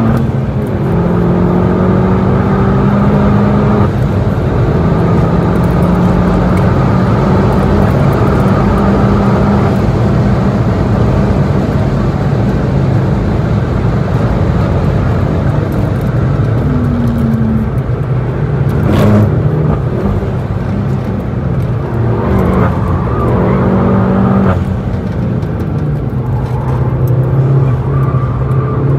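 VW Golf GTI Clubsport S's turbocharged four-cylinder engine heard from inside the cabin, pulling hard through two upshifts with wind and tyre noise at high speed. In the second half come several short rising revs: downshifts with throttle blips under braking.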